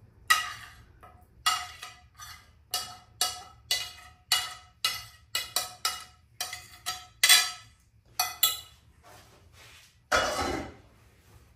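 A metal tray or pan clinking under a quick, irregular series of about twenty sharp taps, each with a short ring. Near the end comes one longer rustling scrape.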